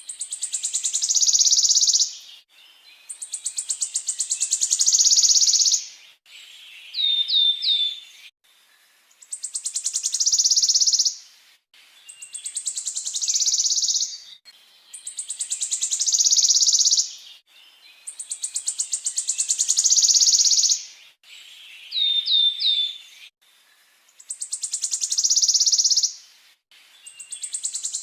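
Songbird repeating a fast rolling trill, each about two seconds long and growing louder as it goes, about every three seconds. Twice a short group of three quick rising whistled notes comes between trills.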